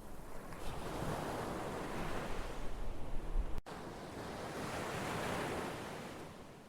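Ocean waves surging and washing on a shore, a steady rush of surf that swells twice and fades near the end. A split-second gap of silence cuts in about halfway through.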